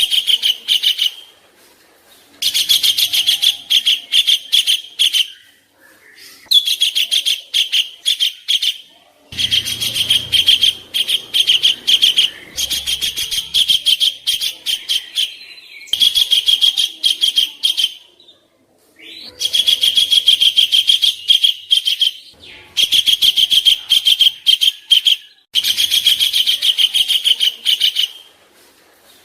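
A songbird's harsh, rapid chattering call, the 'kasaran' type used in masteran recordings for training contest birds: quick repeated notes run together in phrases of two to three seconds, about nine times over with short pauses between.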